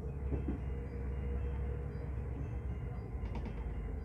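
Regional train heard from inside the passenger car while running: a steady low rumble with a steady hum, and a few light clicks about three seconds in.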